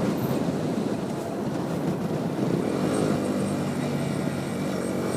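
Motorcycle engine running steadily while riding, with a rushing wind-like noise over it; the engine's hum stands out more clearly in the second half.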